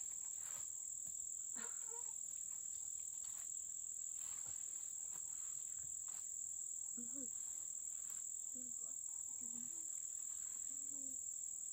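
Steady, unbroken high-pitched drone of rainforest insects, with a few faint rustles and clicks scattered through it.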